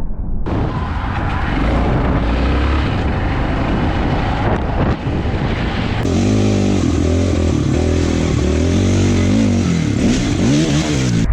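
Motorcycle riding with engine and wind noise. From about six seconds in, the engine's pitch rises and falls repeatedly as it revs.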